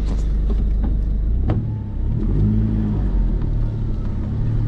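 Four-wheel drive's engine running as the vehicle rolls slowly through a gate. The engine note rises briefly about halfway through, and there is a single sharp click about a second and a half in.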